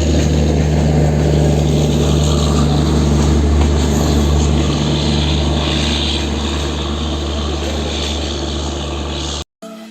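Express train running past: a loud, steady rumble with a low hum, slowly fading, that cuts off abruptly about half a second before the end.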